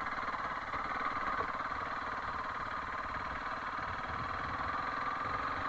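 Honda CRF300L Rally's single-cylinder four-stroke engine running steadily under the rider, with no revving.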